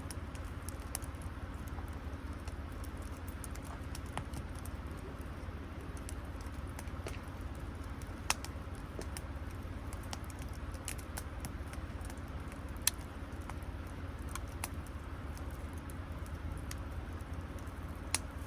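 Wood campfire crackling: scattered sharp pops and ticks, a few louder snaps, over a steady low rumble.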